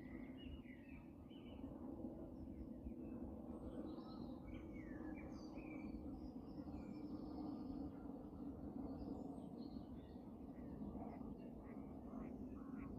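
Faint, scattered high chirps and peeps of small birds, many short notes, over a steady low background hum.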